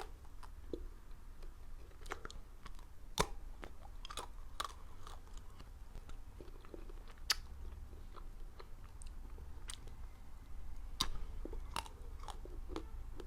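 Close-miked chewing and crunching of ice, with irregular sharp cracks as it is bitten, the loudest about three, seven and eleven seconds in.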